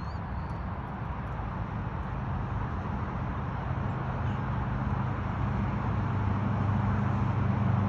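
A steady low motor hum over background noise, growing gradually louder.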